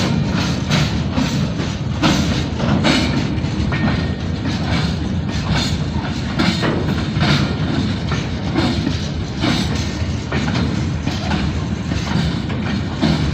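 Train passing close by, its wheels clacking over the rail joints in a steady run of knocks over a heavy rumble.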